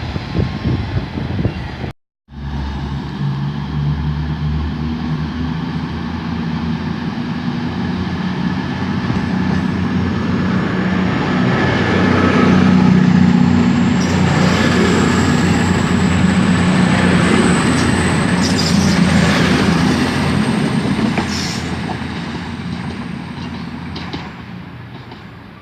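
Diesel train going by, its engine note building to its loudest about halfway and then fading away, with a faint high whine rising slowly throughout. The sound breaks off abruptly for a moment about two seconds in.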